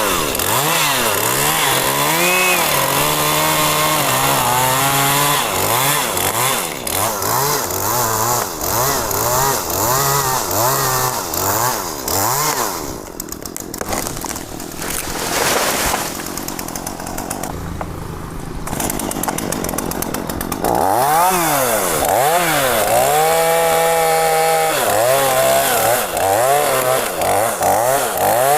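Two-stroke chainsaw cutting mahogany, its engine revving up and falling back again and again. In the middle it drops to a lower, quieter running for several seconds, then revs hard again and holds a high note near the end.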